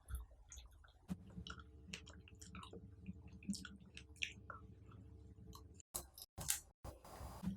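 Close-miked chewing of fruit, with many small wet clicks and smacks of the mouth. The sound drops out completely three times in quick succession about six seconds in.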